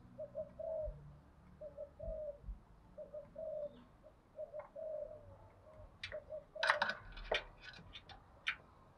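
Spotted dove cooing in short repeated phrases, about one every second and a half. Near the end a quick run of sharp high chirps or clicks is louder than the cooing.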